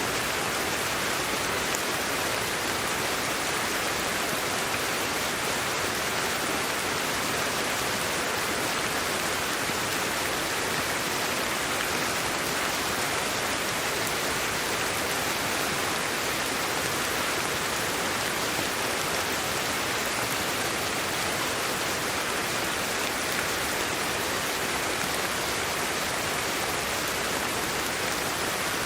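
Steady, unchanging hiss of a sleep-aid white-noise track.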